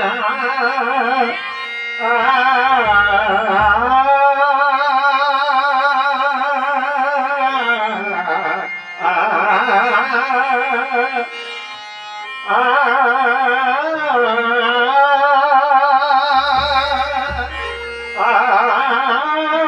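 Traditional Marathi bhajan music: a long, wordless melody of held notes with a wavering vibrato and gliding pitch changes. Deep drum strokes sound twice, near the start and near the end.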